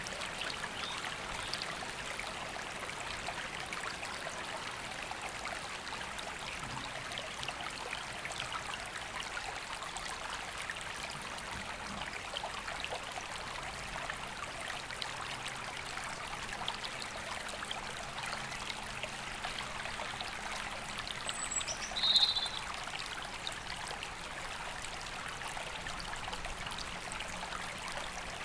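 A river running over stones, a steady rush of water, with birdsong faint in the trees above. About three-quarters of the way through, one short, loud, high call close by, falling in pitch.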